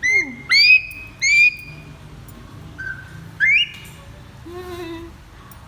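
Grey parrot whistling: a string of short, clear whistles that rise at their starts, then a softer, lower note near the end.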